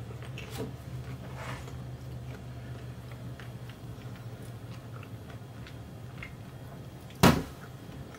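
Person chewing a crunchy ice cream cone with faint crunches and small mouth clicks, over a steady low hum. A short, sharp, louder sound comes about seven seconds in.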